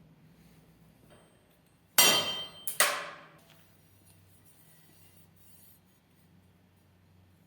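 Two sharp blows about two seconds in, under a second apart, from a small kindling hatchet, each leaving a bright metallic ring that fades quickly.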